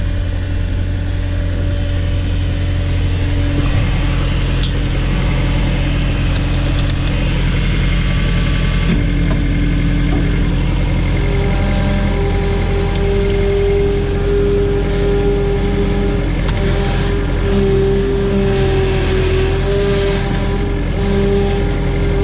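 Case/Davis D100 backhoe engine running steadily as the machine backs up, with a steady higher whine joining about halfway through.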